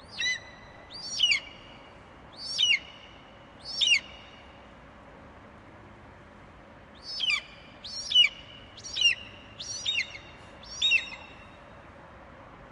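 Eagle calling: a series of four short, high, falling screeches, then after a pause of about three seconds, six more in quicker succession.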